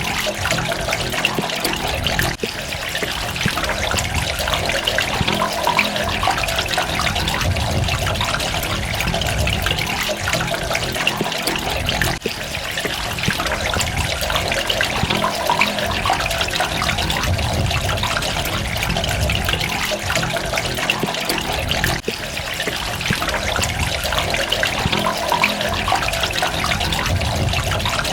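Running water trickling and splashing steadily, with no pause.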